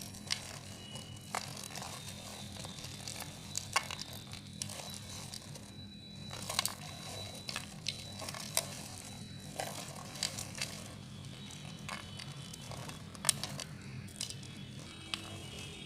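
A knife carving a bar of soap: irregular scratchy scraping strokes and crumbly cracks, with a few sharper clicks, over a steady low hum.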